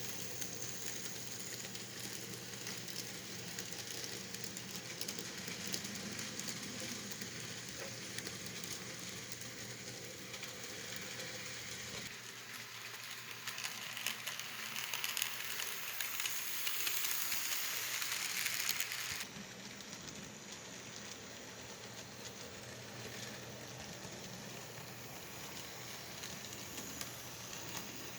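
N scale model train running on the layout, with no sound decoder: a steady hiss of motor and wheels with scattered light clicks. The hiss grows louder for several seconds and then cuts off suddenly about two-thirds of the way through.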